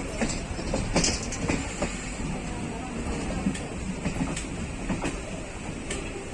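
A train arriving on the rails: a steady low rumble with clicks from the wheels at irregular intervals.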